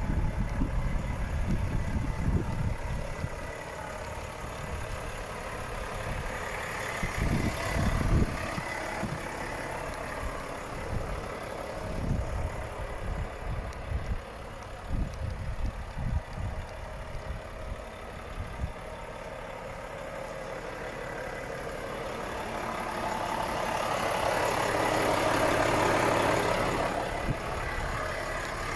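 Volvo FH 540 truck's 13-litre straight-six diesel idling, with irregular low thumps in the first half. Near the end the sound swells up over a few seconds and fades back.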